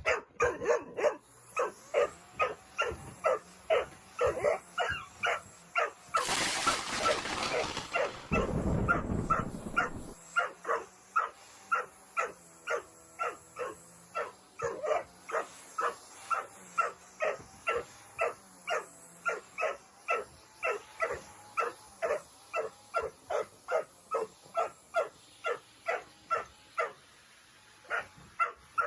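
Doberman barking rapidly and non-stop, about two barks a second, in angry protest at a vacuum cleaner. A loud rushing noise swells over the barking from about six to ten seconds in.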